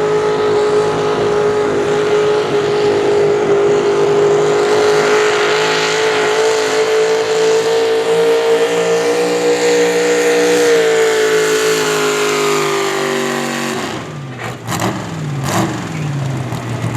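Pulling tractor's engine held at full throttle with a steady high-revving note, then throttled back about fourteen seconds in, its pitch falling quickly as the revs drop.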